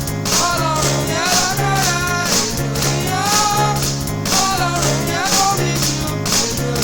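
Praise-and-worship music: a voice singing a melody over a band with a steady beat and a pulsing bass line.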